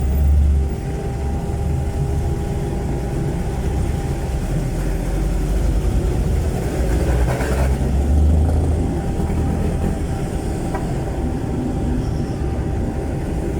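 Jeepney's Isuzu 4BC1 four-cylinder diesel engine running through a very loud, free-flowing exhaust, a deep steady drone that swells a little in places.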